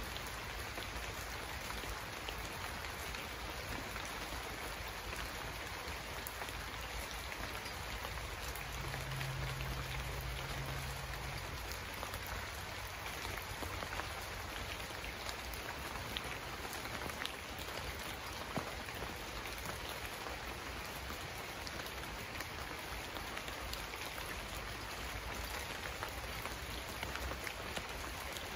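Steady heavy rain falling on a roof, with scattered sharp ticks of single drops. A faint low hum comes in for a few seconds about nine seconds in.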